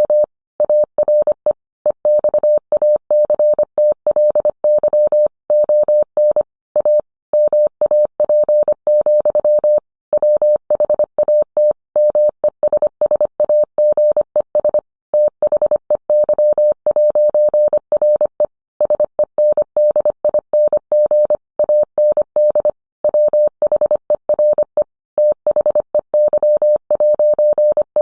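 Morse code sent as a single steady tone of about 600 Hz, keyed on and off rapidly in dots and dashes.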